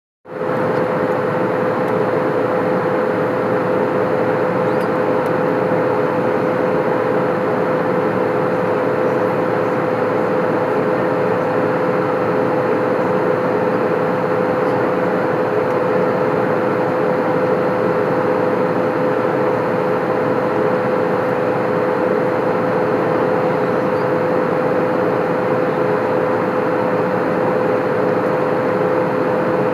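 Steady cabin noise of an Airbus A320 in flight: an even roar of airflow and engines with a steady mid-pitched hum running through it.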